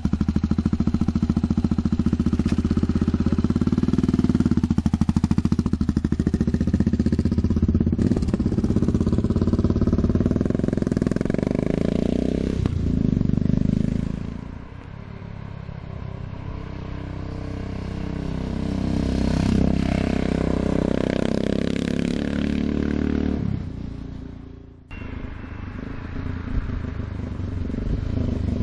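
Yamaha SRX 600 single-cylinder four-stroke motorcycle engine running loudly through a homemade exhaust. Its level drops about halfway through and builds back up, then falls away, cuts briefly and picks up again near the end.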